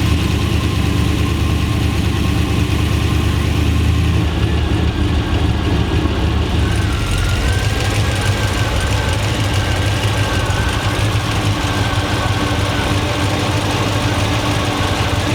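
Turbocharged LS V8 engine idling steadily through its mufflers, freshly restarted.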